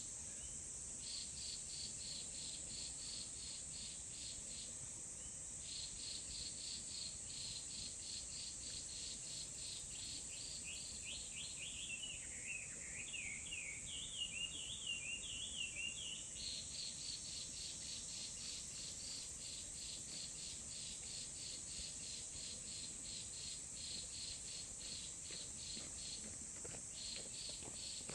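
Insects chirping in a fast, even series of pulses, about three or four a second, over a steady high-pitched insect drone. Partway through, the chirping drops out and a bird sings a run of quick varied, falling notes for about five seconds, then the chirping resumes.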